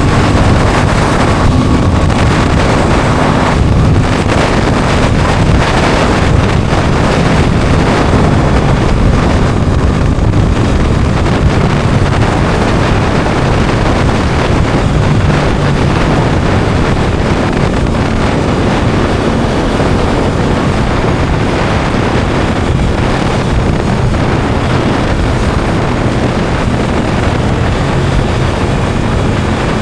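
Aprilia Tuono 660 Factory's parallel-twin engine running under way, its note shifting a little as the rider works the throttle. Heavy wind buffets the microphone throughout.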